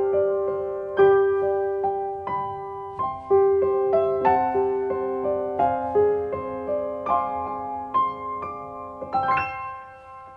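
Background piano music: slow, gently struck notes and chords that ring and fade, dying away near the end.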